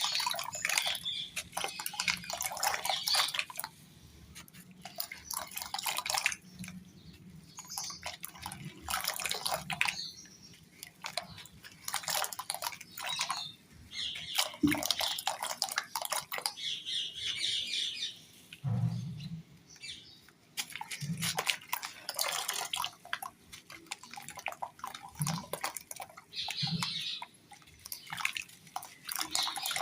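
Crunchy crumbles being crushed into water: repeated bursts of crisp crackling and crunching mixed with small drips and splashes, each burst lasting a second or two with short pauses between. There are a few soft low thuds along the way.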